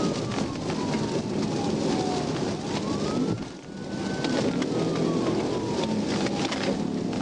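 Police siren wailing, rising and falling in slow cycles of about four and a half seconds, over the steady noise of heavy rain and a car driving fast on a wet road.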